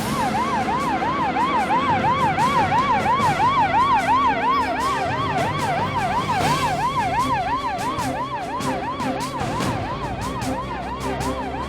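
Police car siren in a fast yelp, sweeping up and down about three to four times a second over vehicle and road noise. It starts suddenly and fades slightly over the last few seconds.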